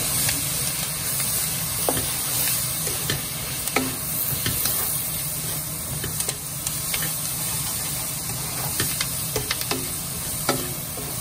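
Onion, galangal, curry leaves and curry powder sizzling in a wok over medium heat while a wooden spoon stirs and scrapes through them, with scattered knocks of the spoon against the pan.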